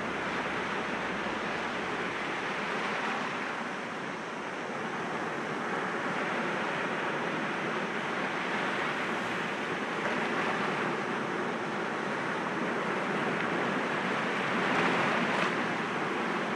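Sea waves breaking gently against rocks: a steady wash of surf that swells and ebbs, dipping about four seconds in and peaking near the end.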